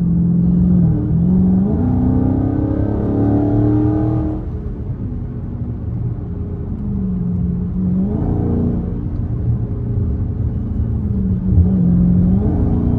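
Straight-piped Dodge Charger Scat Pack's 392 HEMI V8 under hard acceleration. The engine's pitch climbs for a few seconds, drops sharply about four seconds in, then rises again around eight seconds and once more near the end.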